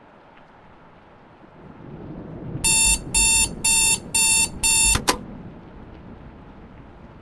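Electronic beeper sounding five short, evenly spaced beeps of one steady pitch, followed by a sharp click, over a low rumbling noise that swells just before the beeps.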